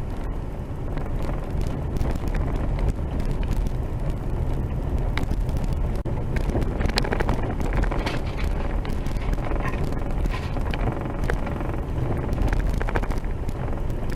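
Vehicle driving on a rough dirt road: a steady low rumble of engine and tyres, with frequent small rattles and knocks.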